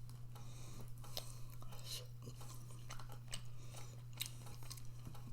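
A person chewing a mouthful of microwave rice with sauce, with scattered light clicks of a utensil against the food container, over a steady low hum.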